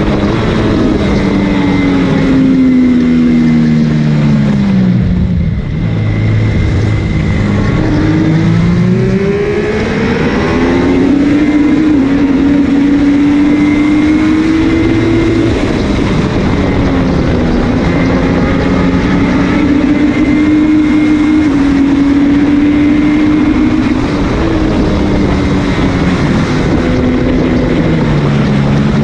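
MV Agusta F3 three-cylinder race motorcycle engine heard onboard at racing speed: the engine note falls as the bike brakes and downshifts over the first few seconds, is lowest around five to six seconds in, then climbs hard through the gears and holds high with brief dips at the gear changes, over wind rushing across the microphone.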